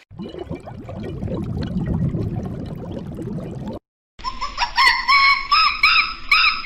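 Two separate animal sound clips. First, a low, rough sound for almost four seconds. Then, after a brief silent cut, a string of short, repeated, high-pitched bird calls.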